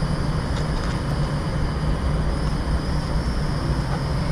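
A steady low rumble with a faint, steady high-pitched whine above it, and a few faint clicks about half a second and a second in.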